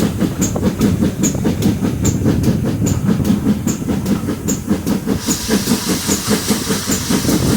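Great Western Railway steam tank locomotive working hard up a steep gradient: a steady, rapid beat of exhaust chuffs with the clickety-clack of the wheels over the rails. About five seconds in, a hiss joins the beat.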